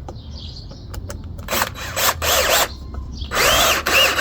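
Power drill driving screws into wood: a short run about a second and a half in, then a longer, louder run near the end, the motor's pitch wavering under load.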